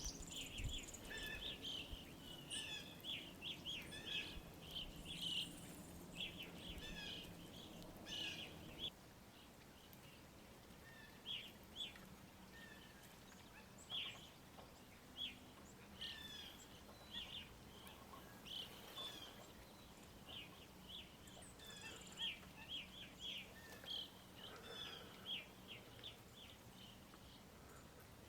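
Faint, frequent short chirps and calls from several birds, with a steady low background noise that drops away about nine seconds in.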